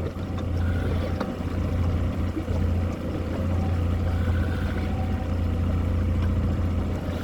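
Motorboat engine running at a steady speed, a constant low hum.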